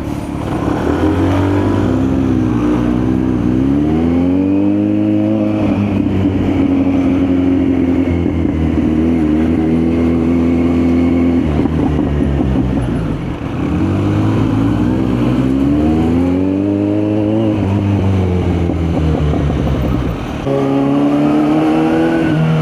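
Kawasaki Z900's inline-four engine under way. The pitch rises and falls as it accelerates, holds and shifts through the gears. It eases off twice, about halfway through and again near the end, before pulling away once more.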